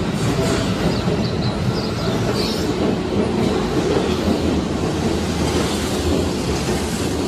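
Keihan 8000 series electric train running past the platform in an underground station: a steady rumble with wheels clattering over the rail joints, and a few faint high wheel squeals in the first few seconds.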